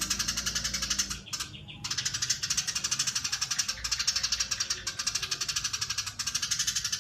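Eurasian tree sparrow giving its long, rapid chattering call: a dense, fast run of short notes that breaks off briefly about a second in and then runs on.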